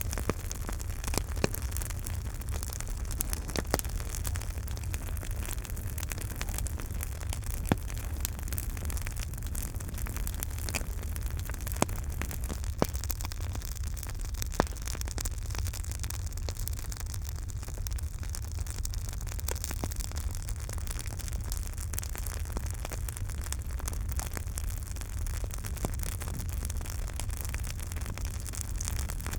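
Campfire burning, crackling steadily with many small sharp snaps and a few louder pops, over a steady low rumble and hiss of the flames.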